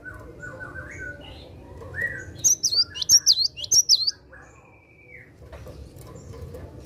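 Cinereous tit (gelatik batu) singing: a few soft chirps, then a quick run of about six loud, high, down-slurred whistled notes, the 'wucit wucit' song, lasting about a second and a half, followed by fainter calls. A low rumble runs underneath.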